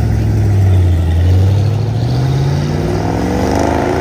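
A classic or muscle car's engine pulling away: a low, steady note for about two seconds, then rising in pitch as it accelerates.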